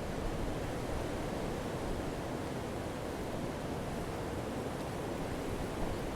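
Campfire burning with a steady low rushing sound and a few faint crackles, with one slightly louder pop near the end.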